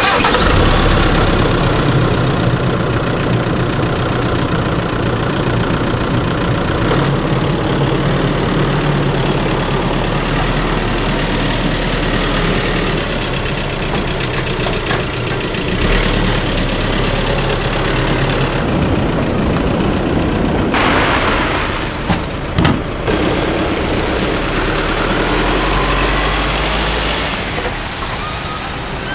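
Vehicle engine running steadily with a low hum. Two or three brief sharp knocks come about three-quarters of the way through.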